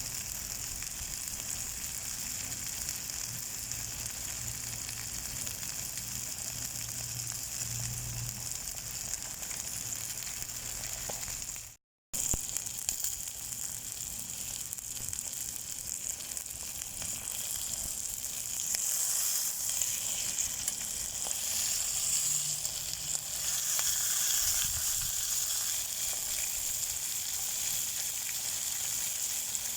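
Chicken thighs sizzling as they fry in a pan, a steady hiss. It drops out for a moment about twelve seconds in, then sizzles a little louder in the second half.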